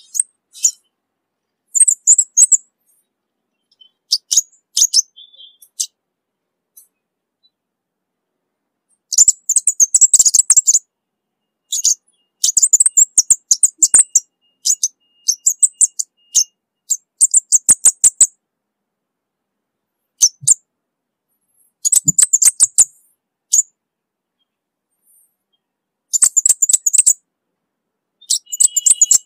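Orange-bellied flowerpecker singing: bursts of very high, thin, rapid ticking chirps, each phrase a second or so long, separated by silent pauses.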